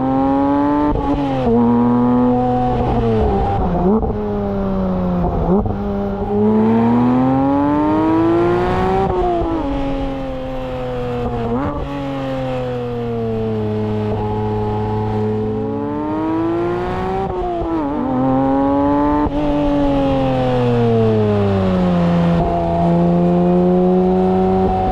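Porsche 911 GT3 S/C's naturally aspirated 4.0-litre flat-six and exhaust pulling hard through the gears of its manual gearbox: the engine note climbs and drops sharply at each upshift, then falls away steadily as the car slows, and the cycle repeats several times.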